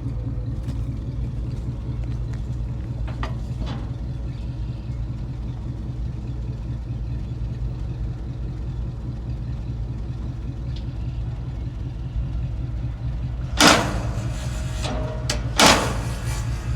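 A 1991 Ford F-250's 460 big-block V8 idling with a steady low rumble. The engine is skipping on one cylinder, which makes it shake a little. About two seconds apart near the end, two loud bangs sound over it.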